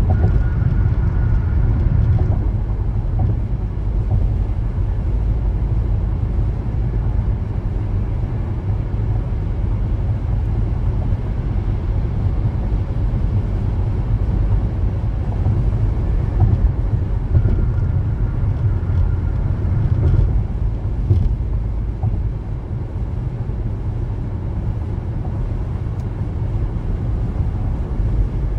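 Car road noise while driving: a steady low rumble of tyres and engine, with a faint high tone sounding briefly twice.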